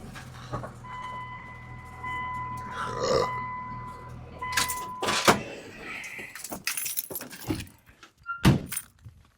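Truck engine idling, then switched off about four and a half seconds in. A steady high warning tone sounds over the idle, followed by knocks and a jingling clatter.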